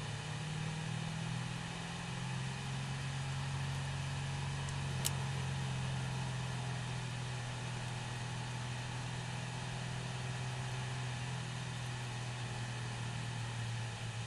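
Chevrolet C6 Corvette's V8 engine running at low, nearly constant revs: a steady drone with an even hiss over it. A single sharp click comes about five seconds in.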